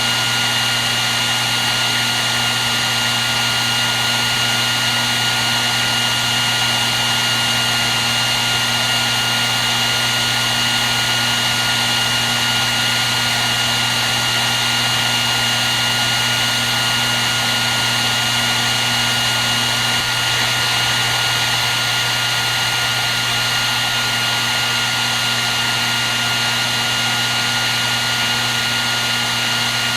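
Hair dryer running steadily without a break: a constant rush of air with a high, even motor whine and a low hum underneath.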